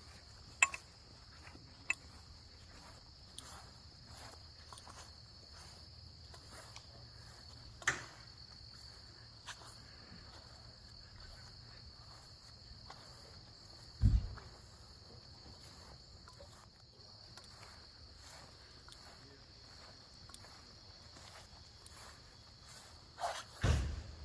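Steady high-pitched chorus of crickets, with footsteps at a walking pace, a few sharp clicks and two dull thumps, one about halfway through and one near the end.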